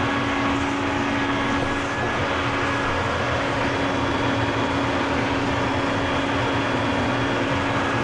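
Vacuum cleaner motor running steadily with a constant whine, sucking dust and lint out of the opened dryer.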